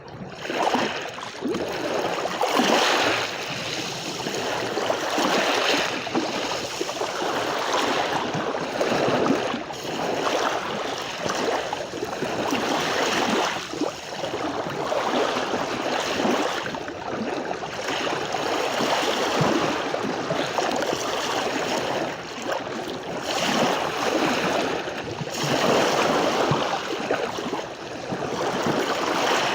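Sea waves breaking and washing on a beach: a continuous rush of surf that swells and eases every two to three seconds.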